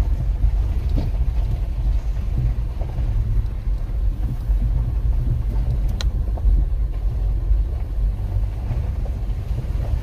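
Pickup truck driving slowly over a gravel road: a steady low rumble of engine and tyres, with one sharp click about six seconds in.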